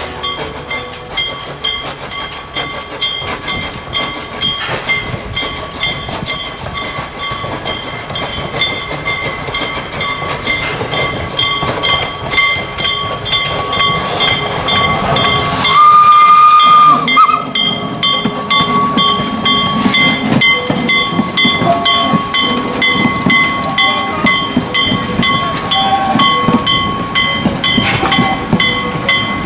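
Steam locomotive running with a rhythmic chuff and clatter that grows louder, and one short steam whistle blast about halfway through, the loudest sound.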